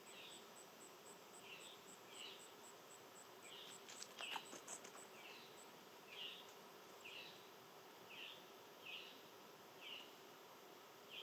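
Faint outdoor nature sounds: an insect's fast, even, very high pulsing, about four pulses a second, that stops about halfway, under short chirps repeated every half second to a second. A few sharp clicks about four seconds in are the loudest moment.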